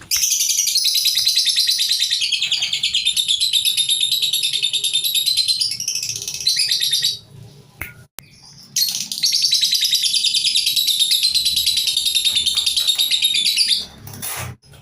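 Lovebird singing its long, fast trilling chatter (the 'ngekek' song) in two bouts, the first about seven seconds long and the second about five, with a short break between them.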